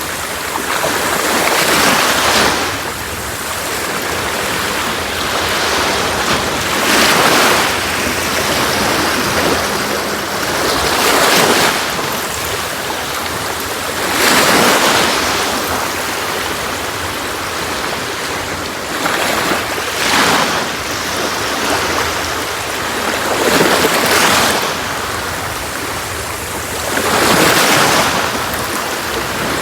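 Sea waves breaking on a beach, a wash of surf swelling up every three to four seconds and falling back between.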